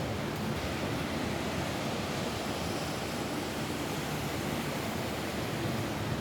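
Steady rain falling on a roof: a dense, even hiss of rainfall without a break.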